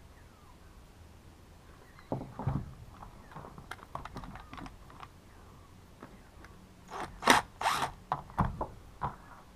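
Hand work on a Husqvarna T435 chainsaw's plastic housing and intake parts: irregular clicks and knocks starting about two seconds in, with a couple of loud scraping rasps near the middle and a few knocks after them.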